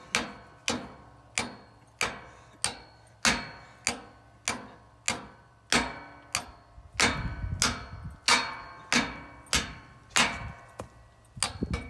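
A small finishing hammer driving large ground stakes for a deer blind: a steady run of about eighteen blows, roughly one and a half a second, each with a brief ringing tail.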